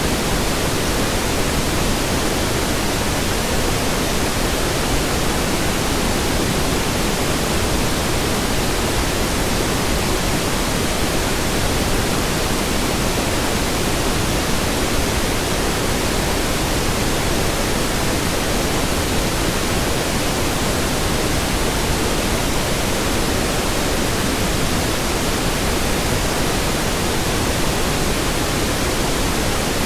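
Steady synthetic pink noise: an even hiss, unchanging in level and without any tones, clicks or events.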